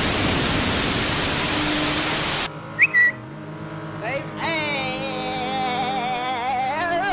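A string of meme sound effects: a loud burst of static-like hiss that cuts off suddenly, two short chirps, then a wavering, warbling tone that wobbles in pitch.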